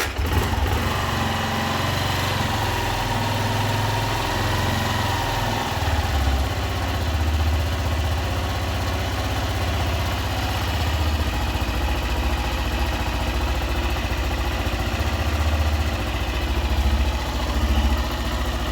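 Honda CG 125 Titan 2000's single-cylinder air-cooled pushrod engine idling steadily. It runs without the valve tapping it had before, having had its camshaft, rocker arm and rocker shaft replaced.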